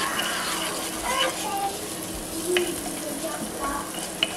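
Diced onion sizzling in oil in a pot while a wooden spoon stirs it, with voices in the background and a short knock near the end.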